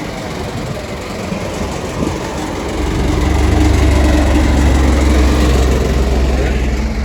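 Heavy diesel truck engine running close by. It grows louder about three seconds in, then holds a steady low drone.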